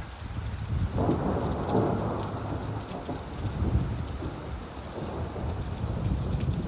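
Steady rain with a low rolling rumble of thunder that swells about a second in and fades away over the next few seconds.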